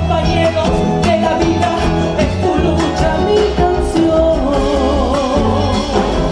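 A song with a singer over band accompaniment and a steady bass beat; near the end the voice holds a long note with vibrato.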